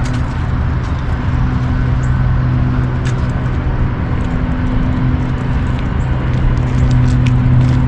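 A steady low hum with an even rush of noise, like motor traffic running nearby.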